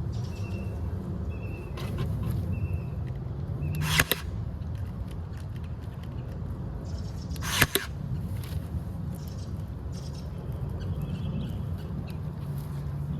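Two sharp knocks about three and a half seconds apart over a steady low rumble, with a bird chirping a few times in the first seconds.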